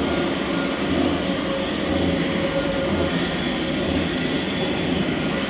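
Large machinery running steadily: a loud, even drone with constant humming tones.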